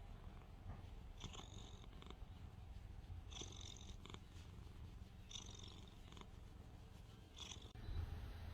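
Domestic cat purring softly and steadily, with a short breathy hiss about every two seconds as it breathes in and out.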